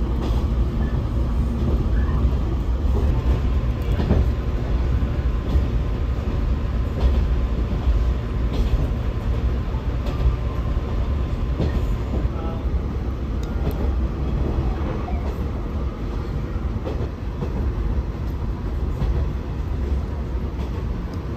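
Rokumon restaurant train running, heard from inside the carriage: a steady low rumble with a few faint clicks.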